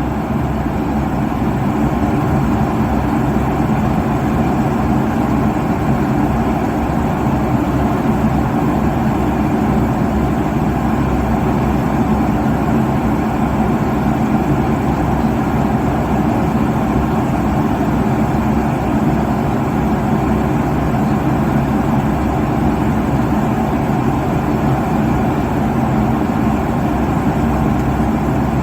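Jet airliner cabin noise at cruising altitude: a steady, even rush of engine and airflow noise, strongest in the low range, with no change throughout.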